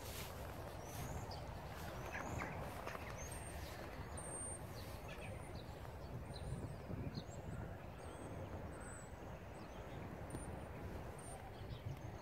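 Small birds chirping and calling outdoors: many short, scattered high notes and brief whistles, over a steady low background rumble.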